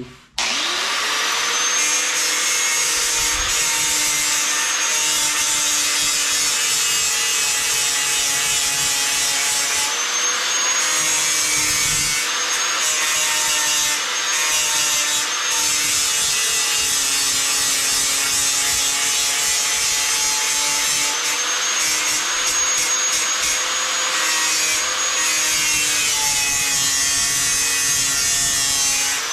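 Angle grinder grinding the cutting edge of a steel lawn mower blade to sharpen it. The motor spins up about half a second in, then runs as a steady, loud grind, its pitch dipping a little at times as the disc bears on the metal.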